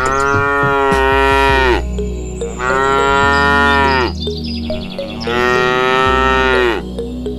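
A cow mooing three times, each moo long and drawn out and dropping in pitch at its end.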